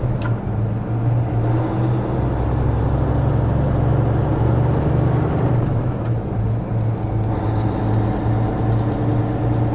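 Semi truck's diesel engine running steadily as it pulls a loaded lowboy trailer, a deep even drone that shifts slightly about halfway.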